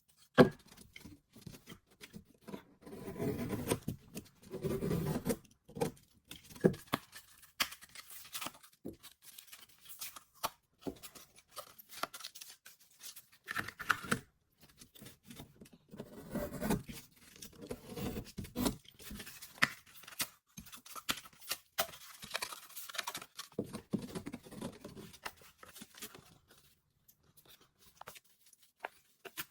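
Hand work on a drywall butterfly patch: gypsum board being cut with a knife and its paper facing torn and peeled, with scraping and scattered sharp clicks and taps.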